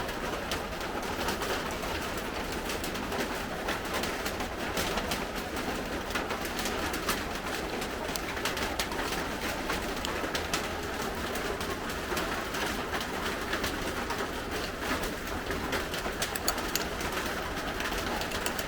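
Steady rain falling, an even hiss with many small pattering drops throughout.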